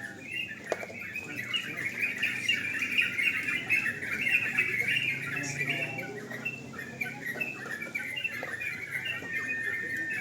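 Several caged yellow-vented bulbuls (trucukan) singing and chattering at once, a dense unbroken chorus of quick bright notes.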